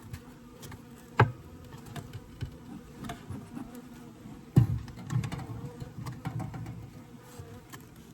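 Honeybees buzzing around an open hive, an uneven low hum that swells and fades as they fly near. Two sharp knocks cut through it, about a second in and again near the middle, the second the louder.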